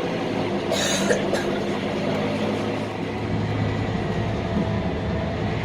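Scania K310UB bus, its five-cylinder diesel engine running with a steady low drone, and a short hiss about a second in.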